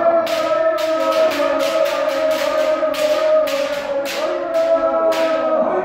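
A kendo kiai: one long, held, pitched shout that stops just before the end. Over it run quick, sharp cracks of bamboo shinai strikes, about three a second.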